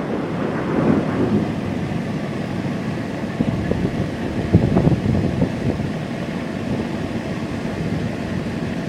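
Low rolling thunder rumbling on, swelling briefly a little past halfway, with wind buffeting the microphone.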